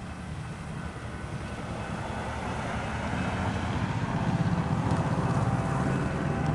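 A low diesel rumble from an approaching BNSF freight train's locomotives grows steadily louder, over the faint steady ringing of the grade-crossing bell.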